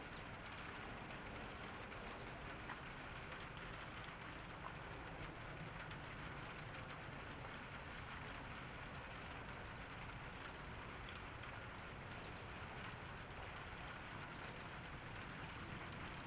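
Steady summer rain falling on a garden, an even hiss with scattered drops ticking on surfaces.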